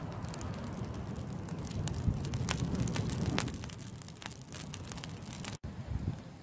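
Wood campfire burning, with frequent sharp crackles and pops over a low rushing noise.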